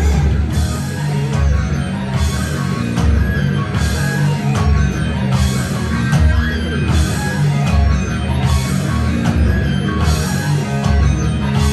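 Live rock band playing an instrumental passage on drum kit, electric guitar, bass and keyboards, with cymbals crashing about once a second.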